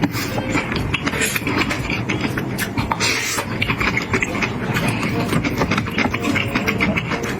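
Close-miked wet slurping and chewing of sauce-coated noodles: continuous loud, sticky mouth clicks and smacks.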